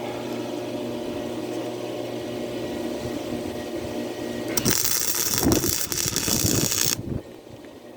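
Small arc welder humming steadily, then a weld struck about halfway through: the arc crackles and sizzles for about two and a half seconds and cuts off suddenly.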